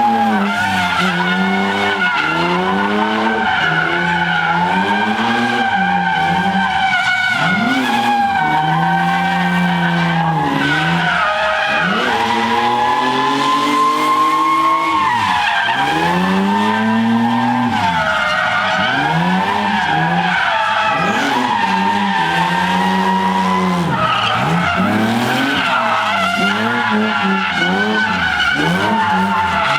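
A car engine revving hard and dropping back over and over, roughly every second or two, while the tyres spin and squeal in a burnout.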